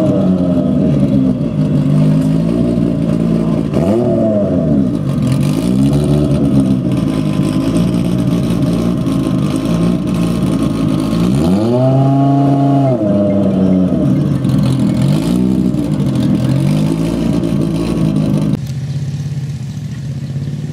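Superbike racing motorcycle engine at full throttle, its pitch climbing and falling again and again as it revs up and is cut back between bends. About eighteen seconds in the sound drops abruptly to a quieter, steadier engine note.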